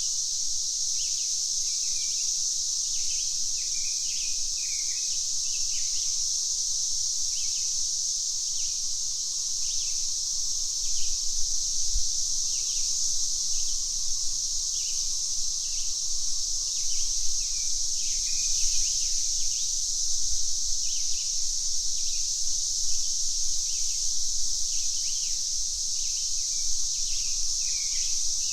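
Cicadas buzzing in a steady, high chorus, with many short bird chirps over it.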